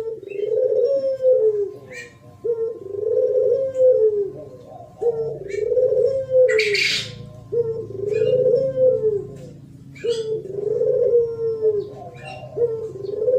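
Spotted dove cooing, the 'thổ pháp' style of call used to provoke other doves. A repeating multi-note coo phrase comes about every two and a half seconds, with short high chirps of small birds in between and a brief hiss about halfway through.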